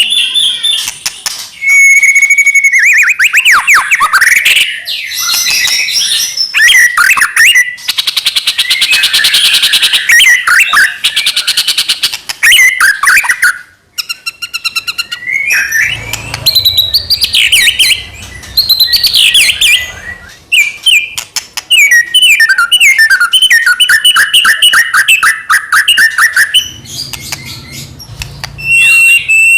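White-rumped shama (murai batu) singing loudly and continuously: a varied stream of whistles, sliding notes, fast trills and rapid repeated notes, with a brief break about halfway through.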